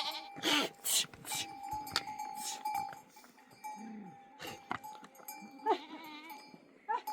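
A flock of goats and sheep with bells clinking almost all the time, and a few short bleats in among shuffling and rustling.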